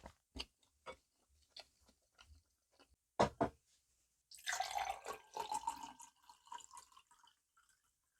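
Eating sounds close to the microphone: a few light clicks and taps, two sharper clacks a little past three seconds in, then about three seconds of wet, liquid sound.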